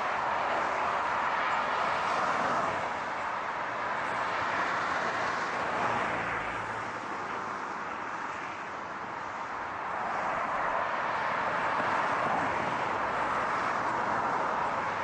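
Steady rushing car noise, easing a little around the middle and building again.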